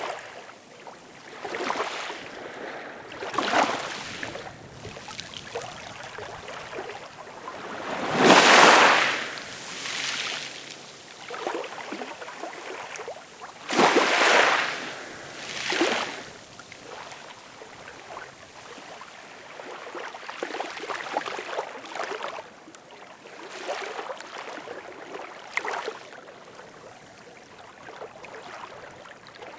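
Ocean waves breaking and washing in, in irregular surges. The biggest wash comes about a third of the way in and another shortly after, with softer swashes between.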